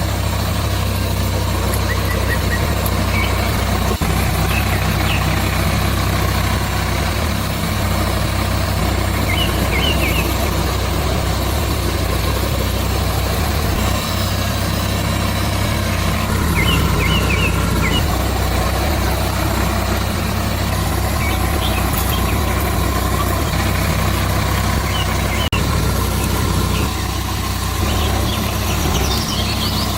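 An engine running steadily at a constant speed, with a few short bird chirps over it.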